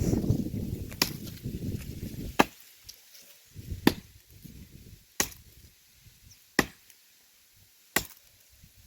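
Axe blows chopping into a dry tree trunk, seven strikes at a steady pace of about one every one and a half seconds.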